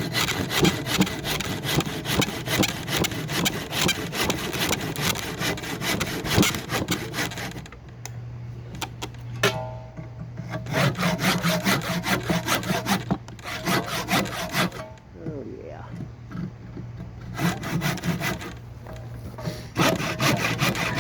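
Handsaw cutting a cedar block in bouts of rapid back-and-forth strokes, with a few short pauses between bouts.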